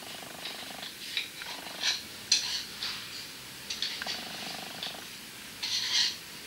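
A cat purring in stretches of about a second, with short crackling or rustling sounds throughout, loudest about two and a half seconds in and again near the end.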